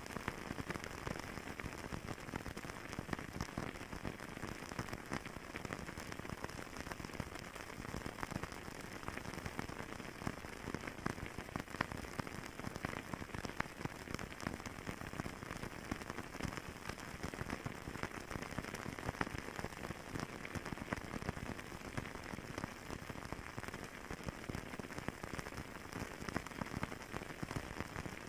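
Fireplace fire crackling steadily: a dense run of small pops over a soft hiss.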